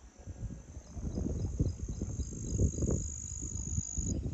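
Insects keep up a steady high-pitched drone, with faint regular chirps beneath it. Over this runs a loud, uneven low rumble like wind or handling noise on the microphone.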